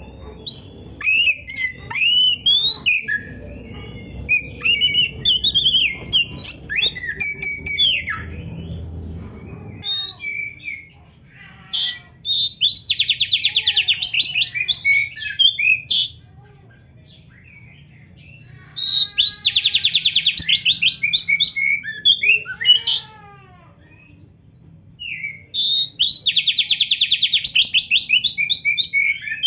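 Oriental magpie-robin (kacer) singing loudly: a rapid string of varied whistled and rasping phrases, then three bouts of a fast buzzy trill, each about three seconds long, with short gliding calls and pauses between them.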